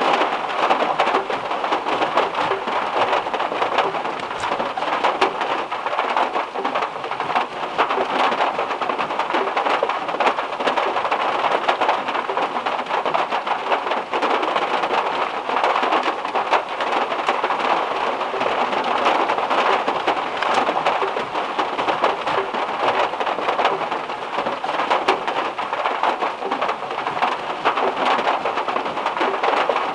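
Heavy rain falling on the metal roof of a Volkswagen Beetle, heard from inside the car: a dense, steady hiss of countless small drop hits.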